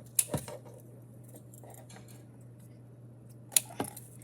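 Scissors cutting the tags off small cat toys: a few short sharp clicks and light metallic clinks, two close together at the start and two more near the end, over a faint steady hum.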